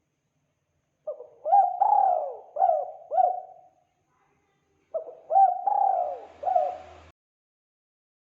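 Spotted dove (tekukur) cooing: two phrases of four or five coos each, separated by about a second of silence, the second cut off abruptly. A clean recording of its call, used as a lure call to attract wild doves.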